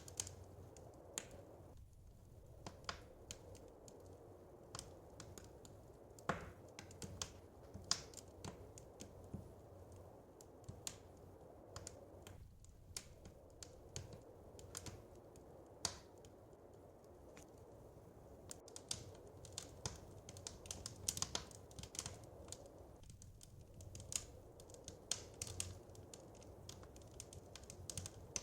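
Wood fire crackling in a fireplace: quiet, irregular sharp pops and snaps over a faint steady low background.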